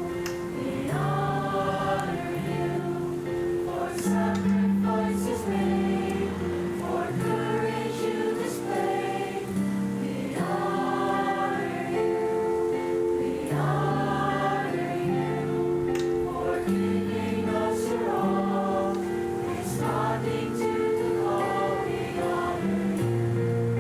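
A high school chamber choir singing a slow choral piece in several parts, over long held low notes.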